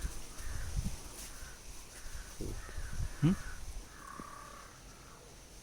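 Birds calling outdoors: a series of short rasping calls, with one longer call about four seconds in. Low rumbling microphone handling or wind noise in the first second, and a brief low rising sound about three seconds in.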